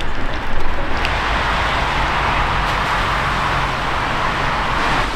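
Steady rain hiss over a wet car park, with a low vehicle engine hum underneath for a couple of seconds in the middle.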